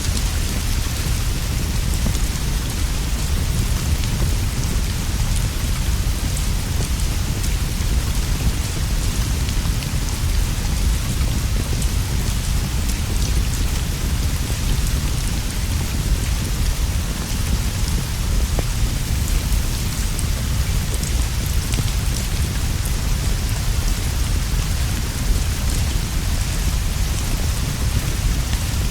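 Steady rain falling without a break, with a deep, continuous rumble underneath and scattered small ticks in the high hiss.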